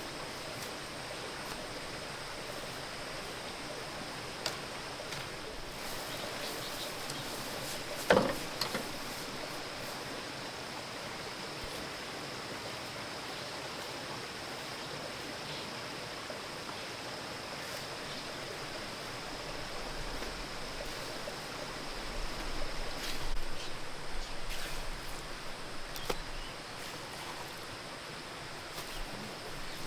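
Steady outdoor background hiss with one sharp knock about eight seconds in, then scattered irregular rustling and small knocks in the last third.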